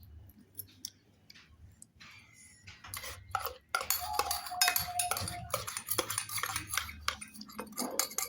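Spoon clinking and scraping against a bowl of seblak. A few scattered clicks at first, then about three seconds in a quick, busy run of clinks and scrapes.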